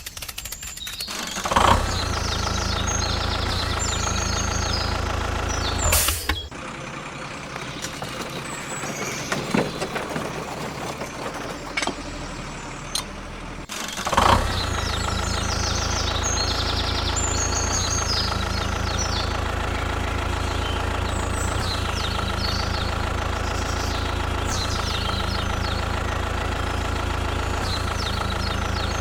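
A vehicle engine or motor hums steadily, comes on sharply about a second and a half in, then drops away to a quieter stretch from about six seconds in. Around fourteen seconds in it starts again sharply and runs steadily from then on.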